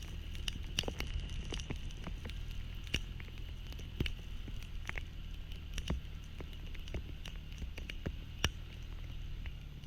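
Rain falling, heavy drops ticking irregularly and sharply on a nearby surface, over a low steady engine hum.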